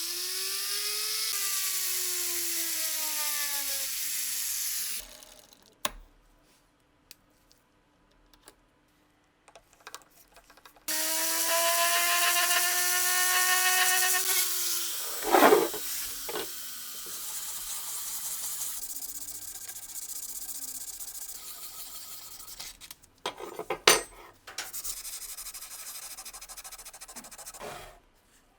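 An electric power tool running in two bursts, its motor whine sliding in pitch as it works. A loud knock comes about fifteen seconds in, with clicks and rubbing noise between and after the runs.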